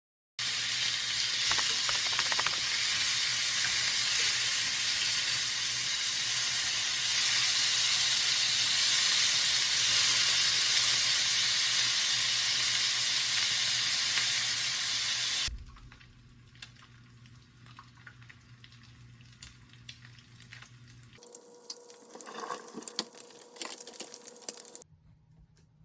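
Food sizzling in a hot frying pan, a steady loud hiss that cuts off sharply after about fifteen seconds. Light clicks and knocks of kitchen utensils follow, quieter.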